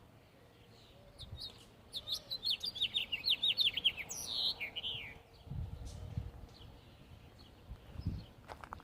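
A songbird singing: a quick run of repeated, downward-sliding high notes lasting about two seconds, ending in a couple of lower slurred notes. It is followed by a brief low rumble.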